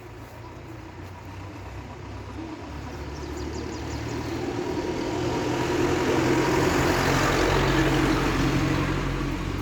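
A motor vehicle's engine, a steady low hum that grows gradually louder, loudest about two-thirds of the way through, then eases slightly.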